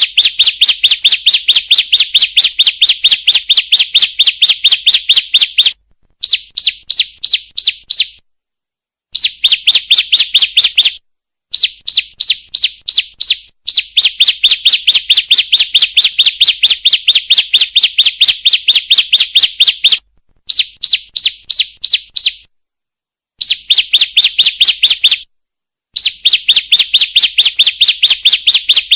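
Female ciblek (a prinia) calling: a fast, even series of sharp high chirps, about four to five a second, in runs of several seconds with short breaks between them. This is the female's call to males, played as a lure.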